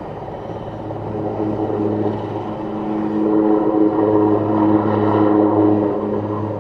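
Super Puma helicopter in flight, its main rotor and twin turbine engines giving a steady hum with a low pitched drone. It swells louder in the second half and then eases off.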